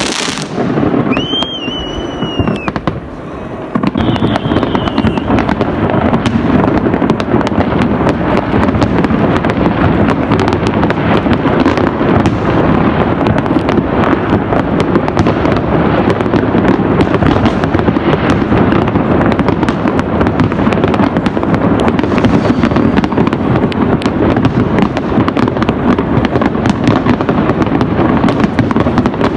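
New Year fireworks crackling and banging in a dense, unbroken barrage, much heavier from about four seconds in. About a second in, a whistling tone rises and falls for a couple of seconds over the pops.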